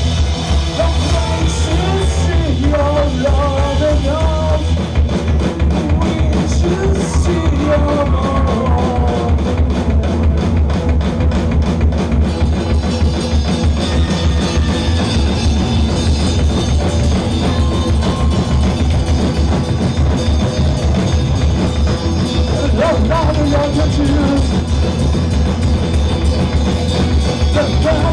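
Live rock band playing loudly: drum kit keeping a dense beat over bass and guitars. A voice sings in wavering phrases for the first several seconds and again near the end.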